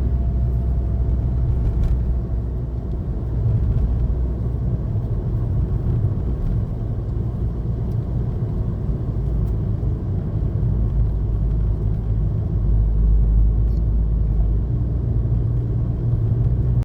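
Longtail boat engine running with a steady low rumble.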